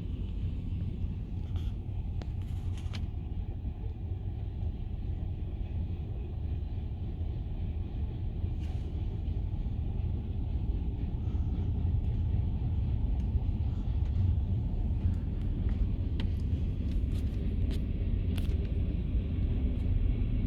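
BNSF freight train rumbling past, a steady low rumble that grows a little louder about halfway through, with a few sharp ticks scattered over it.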